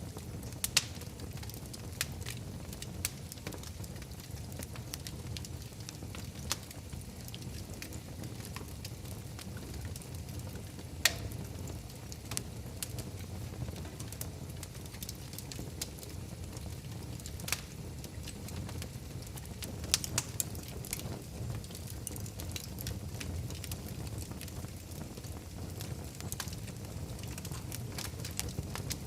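Wood fire crackling in a fireplace: a steady low rumble of flames with scattered sharp pops and snaps, a few of them much louder than the rest.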